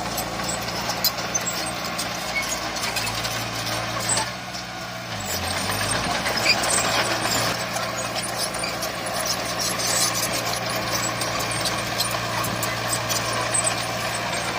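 Heavy diesel earthmoving machinery running steadily, with scattered sharp clanks and rattles. The engine note eases and shifts about four to five seconds in, then picks back up.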